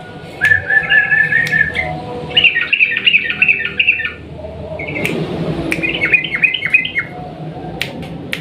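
Yellow-vented bulbul (trucukan) singing in three quick runs of rapid, bubbly repeated notes, each about two seconds long, with short gaps between them.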